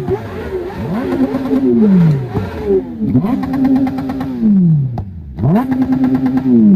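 Superbike with a loud exhaust revved hard three times while standing: each time the engine note climbs quickly, holds at a high steady pitch for about a second, then drops back toward idle.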